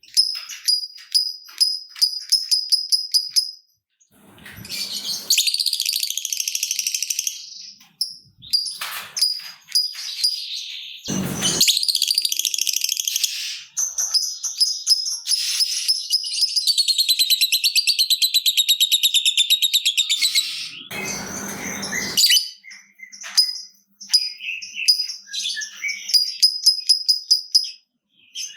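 Lovebirds calling: fast strings of short, high, clicking chirps (the 'ngetik' call), and in the middle a long unbroken rapid chatter of about six seconds, the 'ngekek panjang' (long chatter) prized in lovebirds. A few harsher, noisier screeches break in between.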